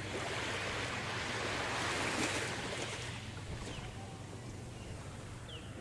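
Waves breaking and washing up on a sandy beach, one wash swelling to its loudest about two seconds in and then fading away.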